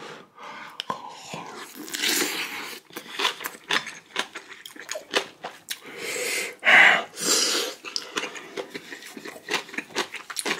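Close-miked eating of a mouthful of rice and kimchi from very spicy kimchi stew: wet chewing and mouth clicks throughout, broken by loud breathy exhales, with the strongest a little before the two-thirds mark.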